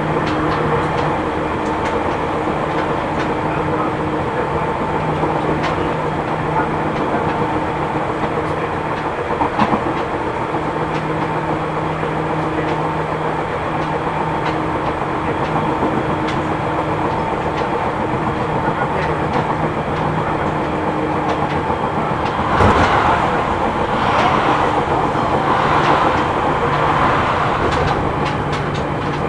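Inside a Seibu New 2000 series electric train running at speed: a steady drone from the running gear, a hum of several held tones, and scattered wheel clicks over rail joints. The car's wheels have flat spots. About 23 seconds in there is a sharp bang, then the rushing noise grows louder for several seconds before settling.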